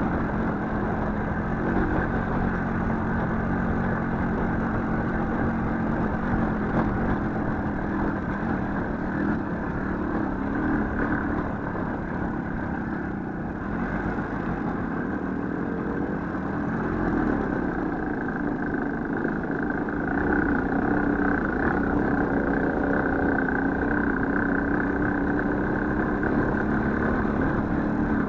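Small motorcycle engine running, its revs rising and falling now and then as the bike is ridden.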